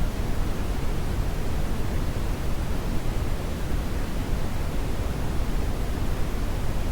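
Synthetic brown noise: a steady, even hiss weighted heavily toward the low end, with no changes or events.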